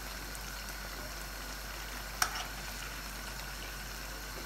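Whole chicken and masala gently sizzling in a wok, with a single sharp clink of a metal spoon against the pan about two seconds in as masala is spooned over the chicken.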